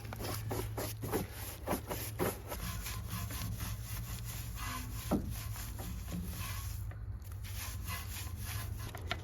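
Stiff detailing brush scrubbing a car's wheel face in quick back-and-forth strokes, about three a second.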